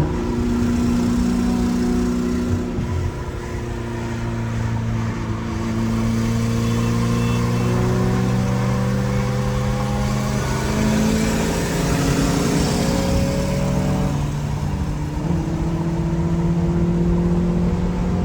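Honda Prelude's four-cylinder engine accelerating hard through the gears. The engine note climbs steadily over several seconds, drops at each gear change, then climbs again.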